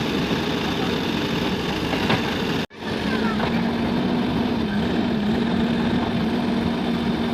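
Heavy diesel engine of a backhoe loader or tractor running steadily. The sound drops out abruptly for an instant about a third of the way in. After that a steady low hum rides over the engine noise.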